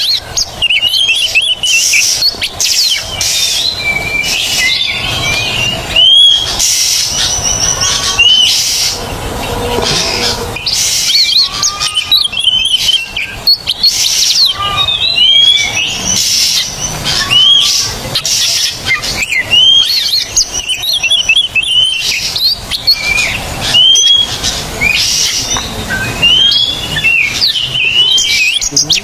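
Oriental magpie-robin (kacer) singing loudly and without pause, a rapid run of varied whistles, slurred notes and chirps.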